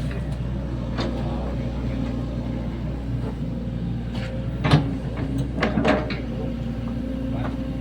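Sany SY75 mini excavator's diesel engine running steadily while it digs, with a few sharp knocks: one about a second in, the loudest just before five seconds, and a cluster near six seconds.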